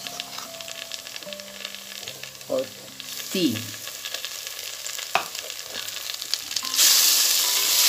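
Sliced onions and ginger-garlic paste frying in hot oil in a large aluminium pot, crackling as a spatula stirs and scrapes. About seven seconds in the sizzle jumps suddenly much louder and fuller.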